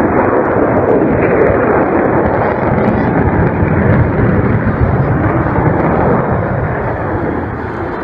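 Avro Vulcan XH558's four Rolls-Royce Olympus jet engines running at high power as the bomber flies a climbing display, a loud, continuous rumbling jet noise that eases off slightly near the end.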